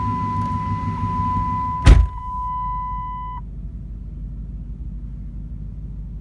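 Pickup's 5.7-litre Hemi V8 idling as a low steady rumble while a steady high dashboard warning chime sounds. About two seconds in a heavy truck door slams shut, the loudest sound; the chime stops about a second and a half later and the idle carries on quieter.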